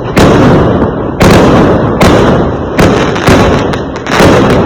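Fireworks exploding: six loud bangs in quick succession, roughly one a second, each trailing off into a rumble before the next.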